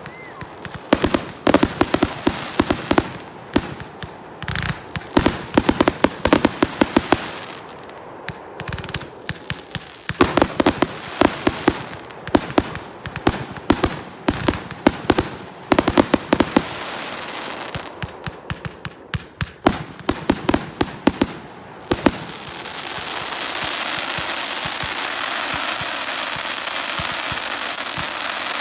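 Fireworks going off in rapid volleys of sharp bangs and cracks, in bursts separated by short gaps. About 22 seconds in, the bangs give way to a steady crackling hiss.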